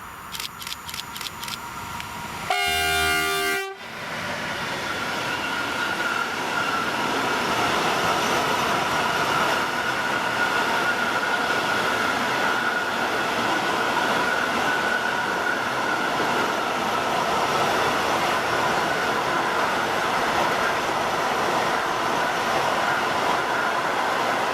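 A train sounds its horn once, a blast of about a second that cuts off sharply, after a quick run of clicks. The train then passes at speed with a steady rushing rumble and a faint whine, building over a few seconds and then holding.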